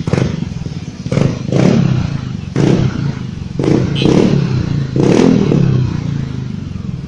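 Yamaha Aerox 155 scooter's 155 cc single-cylinder engine, breathing through an aftermarket full-system exhaust, idling and being blipped: about seven short throttle revs, roughly one a second, each rising quickly and falling back to idle.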